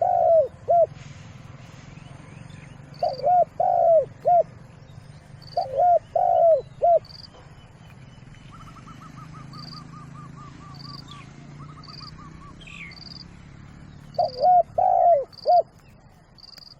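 Spotted dove cooing: four phrases of three to four low, hooked coos, spaced several seconds apart. Between them other small birds give short high chirps about once a second, and a rapid even trill runs for about three seconds in the middle.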